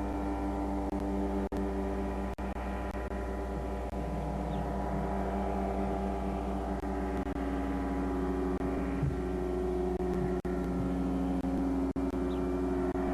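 Two-stroke Rotax 447 engine of a small flying-wing aircraft droning steadily in flight, its pitch wavering slightly. The recording cuts out briefly several times.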